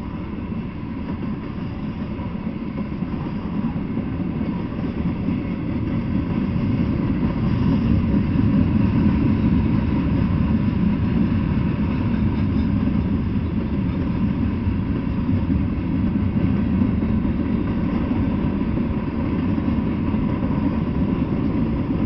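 Freight train rolling past at close range, a steady low rumble of steel wheels on the rails that grows louder about eight seconds in.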